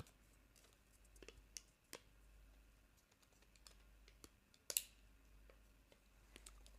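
Soft, scattered taps and clicks, irregular and sparse, with one sharper click a little past the middle.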